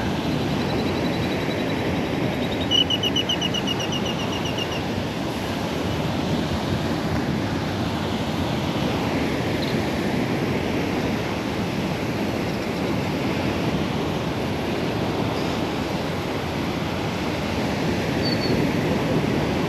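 Surf washing on a beach with wind on the microphone. Over it, a metal detector's high electronic tone sounds steadily for about two seconds, then gives a fast run of short beeps as it closes in on a buried target.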